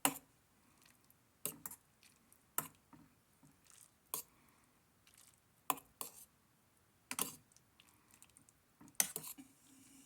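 A utensil stirring ramen noodles in a small saucepan, clinking sharply against the pan's side and bottom at irregular intervals of roughly a second or so, a few strokes in quick pairs.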